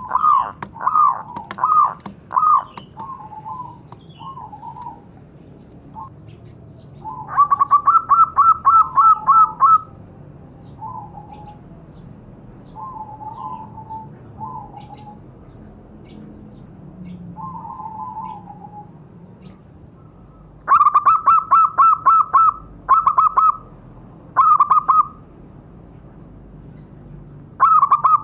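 Zebra doves (perkutut) calling: several loud bursts of rapid, evenly spaced cooing notes, with softer, lower cooing phrases in between.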